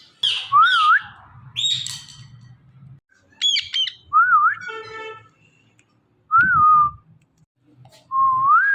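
Indian ringneck parrot calling: a few harsh squawks, one buzzy call about five seconds in, and a short wavy whistle repeated about four times.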